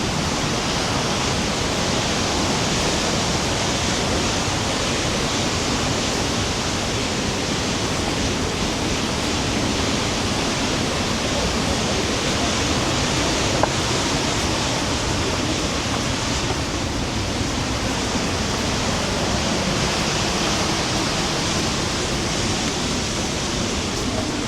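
Rhine Falls' water rushing over the falls, a loud, steady, unbroken noise, with one short click about halfway through.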